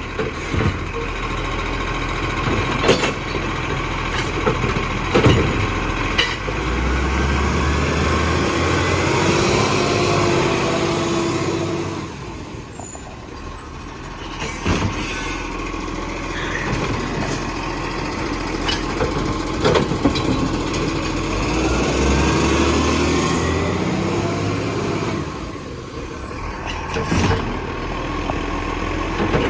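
A garbage truck at work collecting bins. Its diesel engine speeds up twice for stretches of several seconds as the hydraulics run, with gliding whines. Short hisses of the air brakes and scattered knocks and clunks come between.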